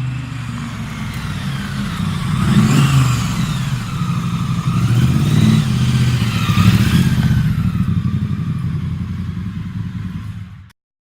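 2019 Triumph Street Twin's 900 cc parallel-twin engine running through an aftermarket-style exhaust, revved up a couple of times and dropping back in between. The sound cuts off suddenly near the end.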